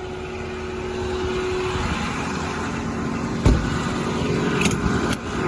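The 6.4L Powerstroke V8 diesel of a 2008 Ford F-450 idling steadily. A sharp thump comes about three and a half seconds in, and two lighter clicks follow about a second later.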